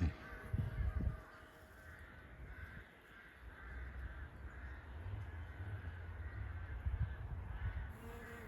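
Birds calling over and over, short cawing calls about two a second, with a low wind rumble on the microphone.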